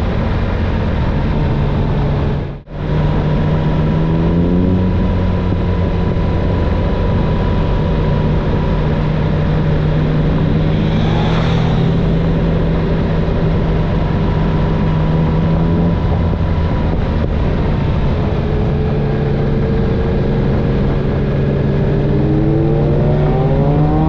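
Motorcycle engine pulling under way over heavy wind rush, its pitch climbing as it accelerates, holding steady, easing off, then climbing again near the end. The sound cuts out briefly about two and a half seconds in.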